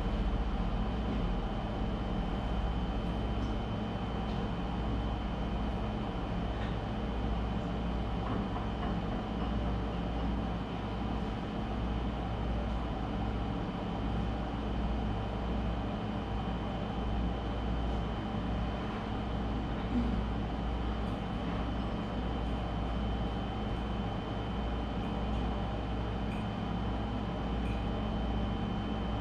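Steady mechanical hum with a constant high-pitched tone over it, unchanging throughout.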